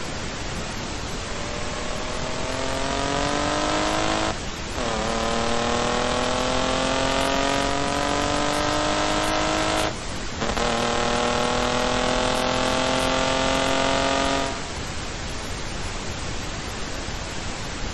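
Engine-swapped BMW E28 accelerating hard through the gears. The engine note climbs steadily, drops with an upshift about four seconds in and again about ten seconds in, climbs once more, and drops away suddenly near the end, over a steady haze of wind and road noise.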